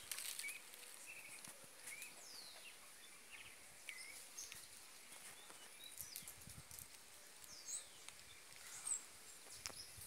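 Faint, scattered bird chirps and short downward-sweeping whistled notes, with a few soft clicks over a light background hiss.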